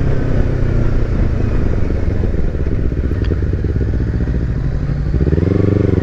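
Kawasaki Versys X300's parallel-twin engine running on the road with a low rumble. About five seconds in, its note rises steadily as the bike accelerates.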